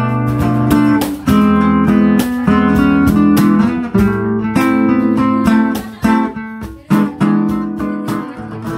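Music: an acoustic guitar strumming chords, getting quieter toward the end.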